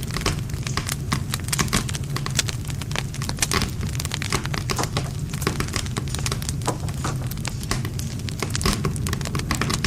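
Wood fire crackling: dense, irregular snaps and pops of burning wood over a steady low rumble of the flames.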